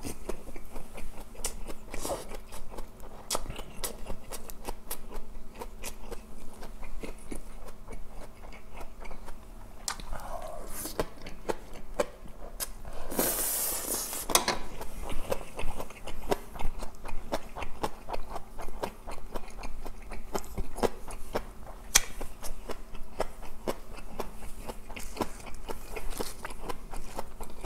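Close-miked chewing, biting and lip-smacking of a person eating, with many small wet clicks throughout. A louder, brief rush of noise comes about halfway through.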